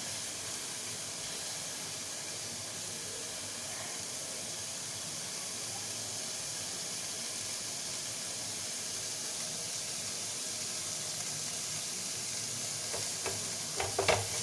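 Boneless chicken kebabs sizzling in a pan over a high gas flame, a steady hiss, with a few short clicks of a utensil against the pan near the end.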